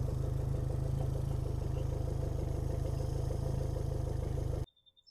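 Yamaha F150 four-stroke outboard idling steadily on a flushing hose after a 300-hour service, being checked for fuel leaks. The sound cuts off suddenly about four and a half seconds in.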